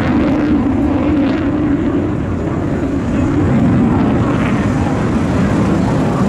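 Leonardo AW249 Fenice attack helicopter in flight, its rotor and turbine noise loud and steady.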